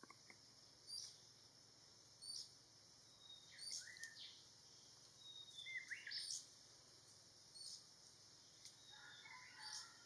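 Faint, short, high bird chirps every second or two, a few with a downward-sliding note.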